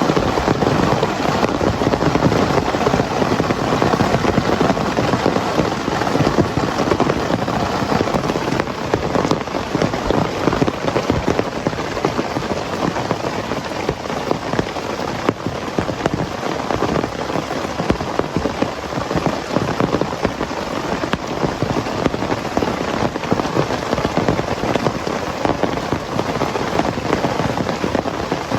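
Heavy rain falling steadily, with a dense stream of close drop hits on a surface near the microphone.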